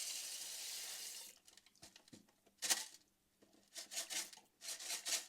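Dry rice pouring out of a cardboard box in a steady hiss, which stops about a second in, followed by several short rattling shakes as the box is emptied of the last grains.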